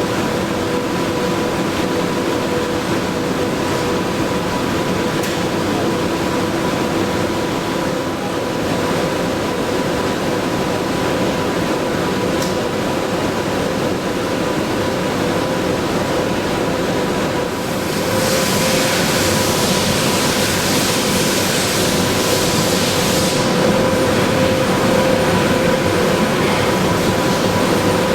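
Röders RXP801 high-speed milling machine cutting hardened tool steel: a steady machining noise with a constant tone running through it. A hiss joins for about five seconds past the middle.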